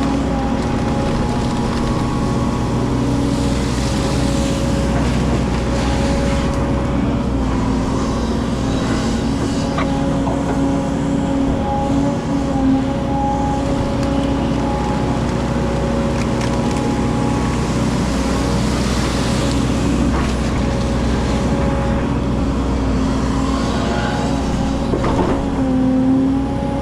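Excavator's diesel engine running steadily while it works, with a couple of short knocks.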